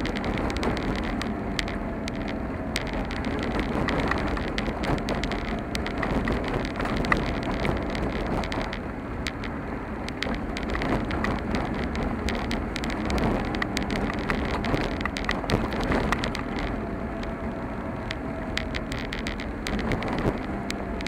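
Car driving along a rough road, heard from inside: steady road and engine noise with frequent small clicks and rattles.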